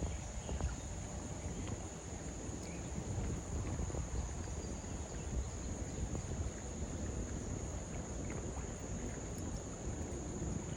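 Insects droning steadily on one high pitch, over a constant low rumble.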